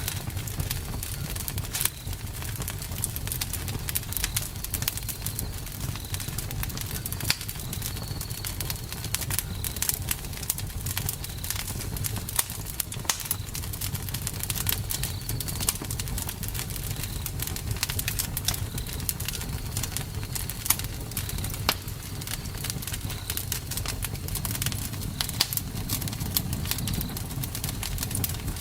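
Campfire crackling, with many sharp irregular pops over a steady low rumble of the burning fire. Faint short high chirps recur throughout.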